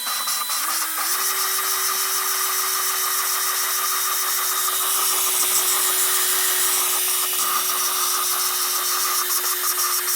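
Power drill running steadily, spinning an exhaust valve against its seat through a hose on the stem, the valve grinding in lapping paste. The drill's pitch steps up slightly about a second in.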